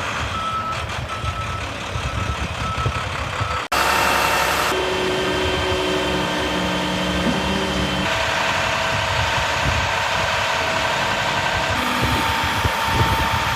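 Truck backup alarm beeping about twice a second over a diesel engine running, then, after an abrupt cut, a 2012 International 7300 truck's engine idling steadily with steady whining tones over it.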